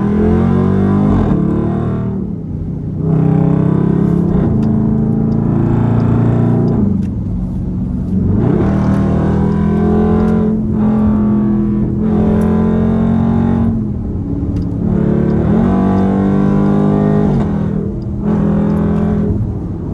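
Straight-piped exhaust of a Dodge Durango SRT 392's 6.4-litre HEMI V8 under hard acceleration. The engine pulls loudly through the gears, with a brief dip in sound at each of about five upshifts.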